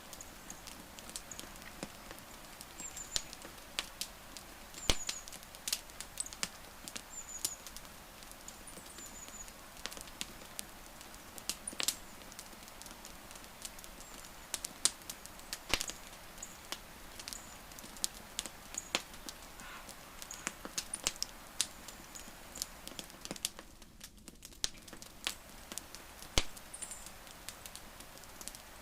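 Wood fire crackling: irregular sharp pops and snaps over a soft steady hiss. Faint short high chirps sound now and then in the first few seconds.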